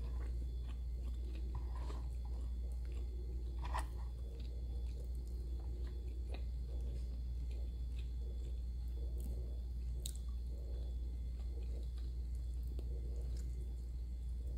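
Close-miked chewing and mouth smacks of a person eating by hand, with scattered small clicks, the sharpest about four seconds in, over a steady low hum.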